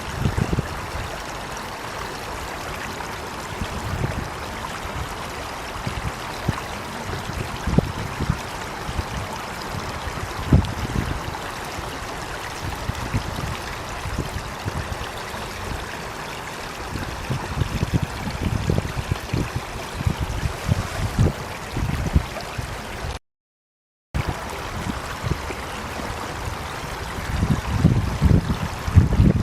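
A stream running steadily, with low rumbles swelling in now and then. The sound cuts out completely for about a second near the end.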